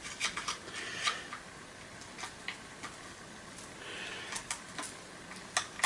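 Screwdriver working a screw out of a vacuum cleaner's plastic casing: scattered small clicks and ticks, with a short light scrape about four seconds in.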